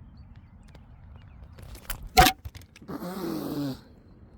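A steady low wind rumble, broken about two seconds in by one sharp smack, then a short falling, groan-like voiced sound with a hissy edge lasting under a second.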